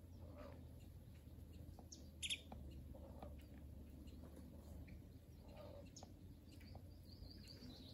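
Near silence, broken by a single short bird chirp about two seconds in and a few faint clicks.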